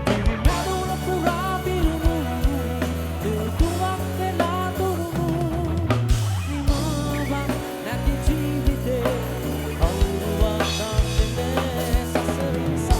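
Live band music: a drum kit keeps a steady beat under held bass notes and a wavering lead melody.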